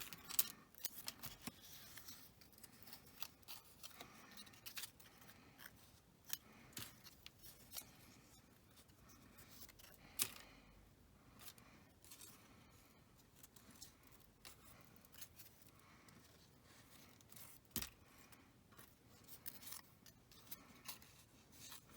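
Faint, scattered snips and clicks of scissors and paper being handled while a paper craft is cut and glued.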